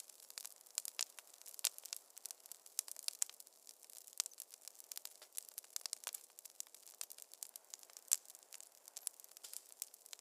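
Wood fire crackling in a fireplace: a dense, irregular run of sharp snaps and pops, several a second, with one louder snap about eight seconds in.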